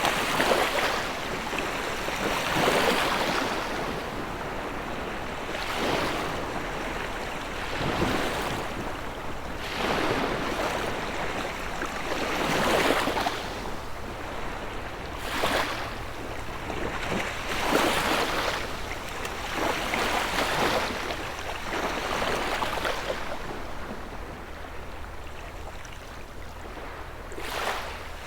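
Small sea waves breaking and washing up on the shore, one surge every two to three seconds, growing calmer near the end. A faint low steady hum lies underneath.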